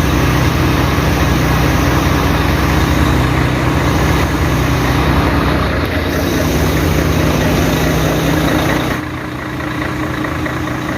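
Heavy diesel truck engine idling steadily, with a loud rushing noise over it that stops suddenly about nine seconds in.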